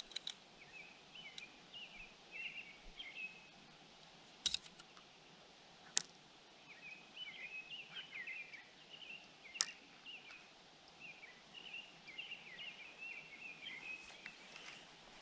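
Birds chirping in many short repeated notes, with three sharp clicks or knocks spread through the middle.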